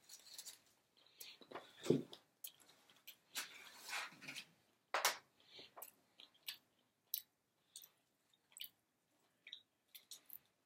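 Chewing and biting into crispy fried chicken wings: irregular crunches and wet mouth sounds, with sharper crunches about two and five seconds in.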